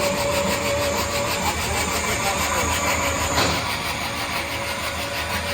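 Engine running steadily with an even, rapid pulse, and a faint steady whine alongside.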